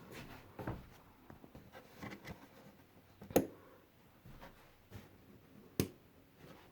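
Faint handling noises with two sharp clicks, one midway and one near the end.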